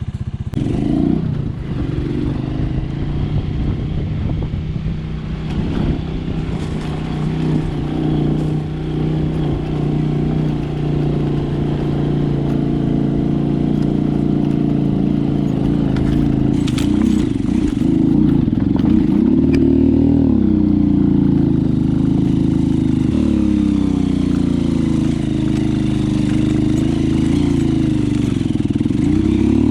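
Small motorcycle engine running under load, its pitch dipping and rising several times in the second half as the throttle changes, with some clatter over it. The engine is short of air in the thin air at high altitude, "screaming for air".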